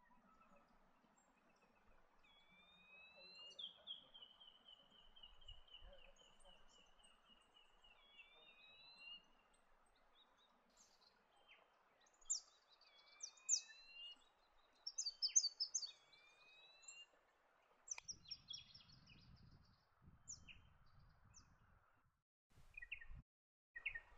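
Diamond firetail calls: drawn-out rising whistles, each about a second long and repeated several times, with a long falling series of notes early on. Short sharp chips and twitters from small birds follow in the second half.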